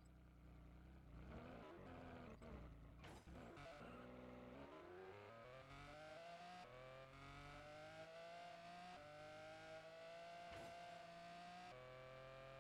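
A faint vehicle engine speeding up, its pitch rising smoothly over several seconds and then holding steady.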